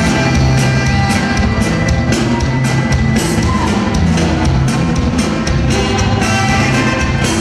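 A band playing music, with a steady drum beat and a bass line under it.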